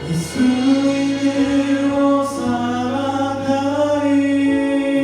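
Worship team singing a Korean praise song together over musical accompaniment, holding long notes that move in steps.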